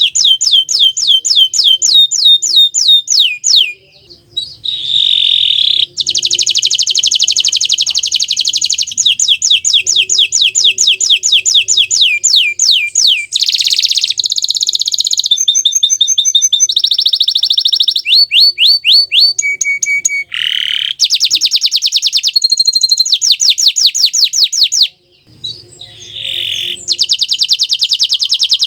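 Green domestic canary singing a long song of fast trills: rapid runs of repeated high notes that switch to a new phrase every second or two, with short breaks about four seconds in and again near twenty-five seconds.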